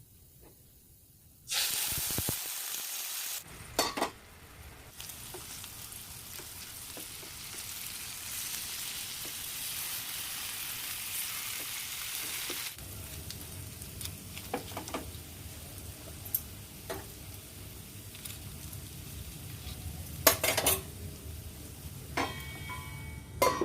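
Hariyali chicken tikka pieces sizzling in a hot pan. The sizzle starts suddenly about a second and a half in, as the food goes in, and carries on steadily. There are occasional clinks and knocks of a utensil against the pan, and a low hum joins about halfway through.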